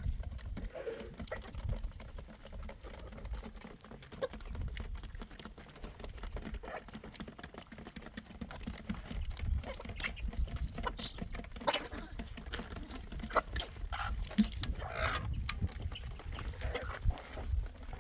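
Farm animals calling: scattered short calls, more of them in the second half, over a low steady rumble.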